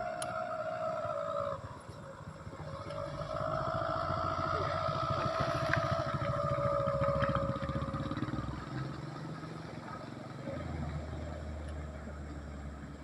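A truck engine running, with a whine that drops out about a second and a half in, comes back rising and falling, and fades away a few seconds later; the engine note deepens and steadies near the end.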